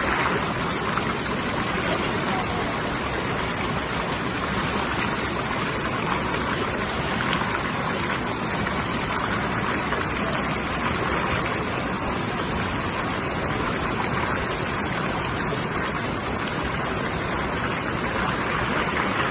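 Waterfall water rushing and splashing steadily.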